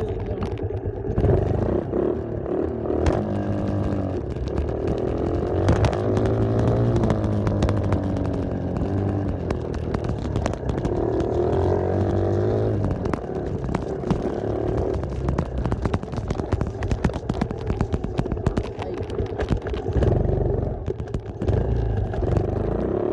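Dirt bike engine running under way, its pitch climbing and dropping several times as the throttle is opened and closed, with rattling clicks throughout.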